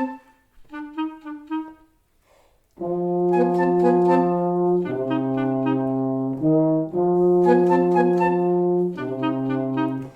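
Music: two quick runs of short repeated wind-instrument notes, then, from about three seconds in, a brass ensemble playing loud held chords over a low bass line, in phrases that break off just before the end.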